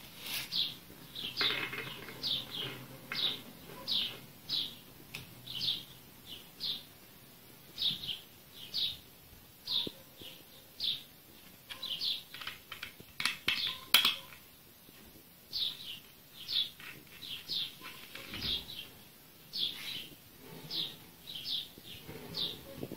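A bird chirping over and over: short, high, falling chirps, about one or two a second with brief pauses. A few sharp clicks sound about halfway through.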